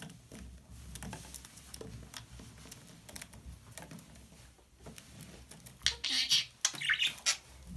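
Budgerigar making soft, irregular clicks and taps, then breaking into loud, high chattering chirps about six seconds in.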